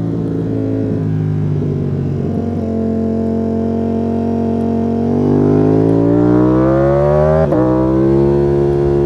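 Ducati Panigale V4 S's 1103 cc V4 engine under way. It holds a steady pitch, then accelerates with rising pitch about five seconds in. A quick upshift about two seconds later drops the pitch sharply before it pulls up again.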